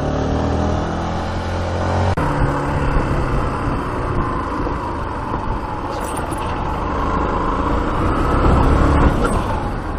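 A motor vehicle running on the road, with its engine note and road and wind noise; the engine pitch drifts slowly down and then back up.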